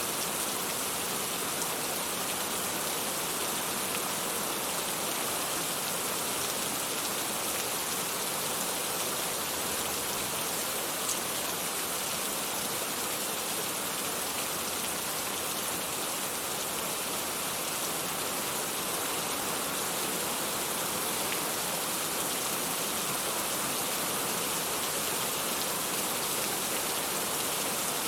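Steady, dense rain falling, an even hiss of many drops with no let-up.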